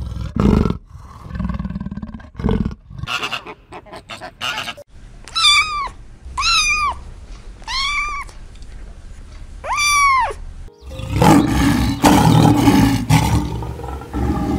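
Animal calls: rough low roars in the first few seconds, then four separate high, arched calls that rise and fall, then a longer, louder roar near the end.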